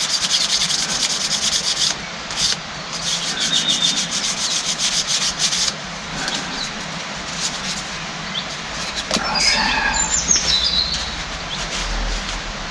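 Fine 1200-grit wet-and-dry abrasive paper rubbed quickly back and forth by hand on a metal hydraulic pump part, in two runs of fast scraping strokes over the first six seconds, then quieter handling.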